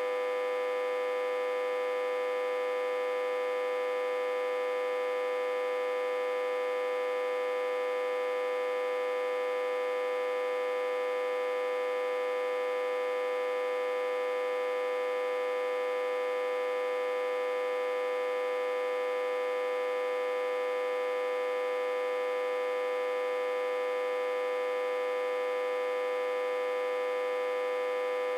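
Autotransformer humming steadily with a buzzy, unwavering tone rich in overtones. It is reverse-connected to a step-down transformer with an input of about 60–80 V.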